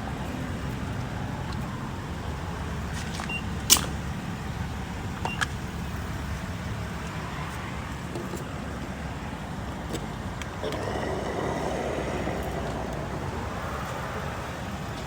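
Car running with a steady low rumble, with two sharp clicks about four and five and a half seconds in.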